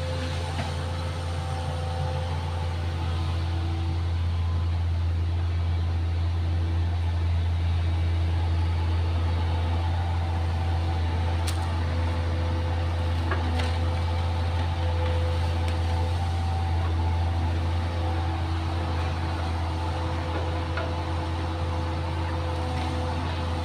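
Excavator engine running at a steady speed, with a low, even drone. A couple of faint clicks come about halfway through.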